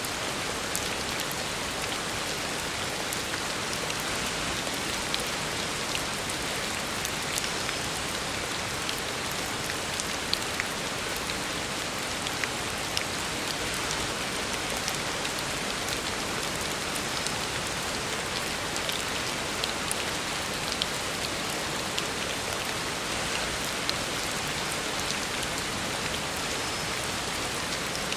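Heavy rain falling steadily on a road, with scattered sharp drop impacts over the constant hiss.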